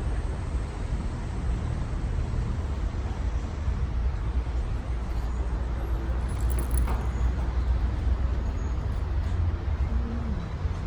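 Steady road traffic noise from passing cars, a continuous low rumble with no distinct events.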